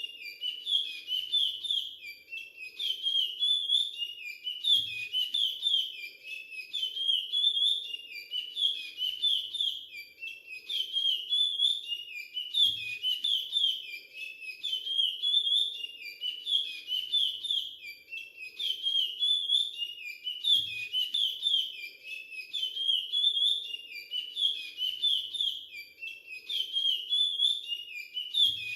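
Young male chestnut-bellied seed finch (curió) singing its whistled Timbira 'virado clássico' dialect song, repeating the same phrase over and over at about one every two seconds.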